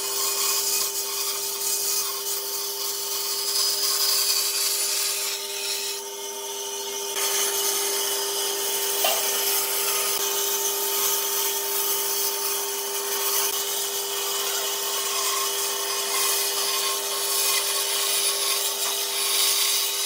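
An electric woodworking power tool working wood, with a steady motor hum under a loud hiss of cutting or sanding. It eases briefly about six seconds in.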